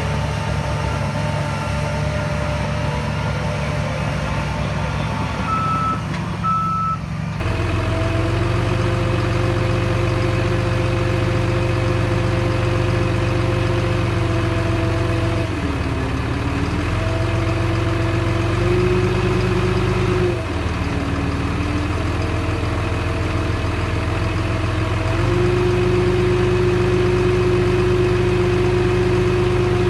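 A vehicle's reversing alarm beeps over a running diesel engine for about the first seven seconds. Then the heavy diesel engine of earth-moving machinery runs loudly and steadily, its pitch dipping twice in the middle and rising again near the end.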